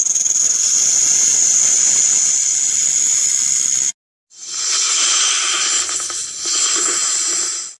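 A snake hissing: two long, loud hisses, the first about four seconds, then a short break before the second.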